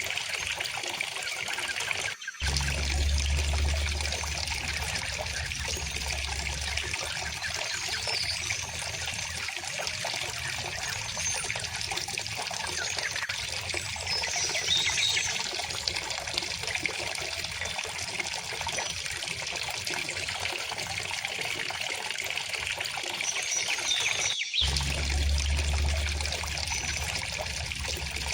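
River water flowing steadily with a trickling, burbling sound, with a few faint high bird chirps. The sound drops out for an instant twice, about two seconds in and near the end, each time followed by a few seconds of low rumble.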